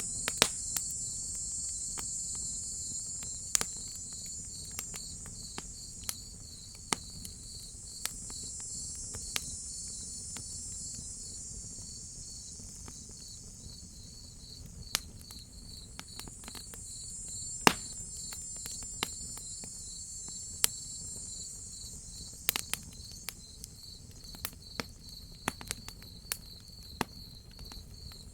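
Crickets chirping in a fast, even pulse over a higher insect drone that swells and fades, with the sharp pops and crackles of a wood fire scattered irregularly on top; the pops are the loudest sounds.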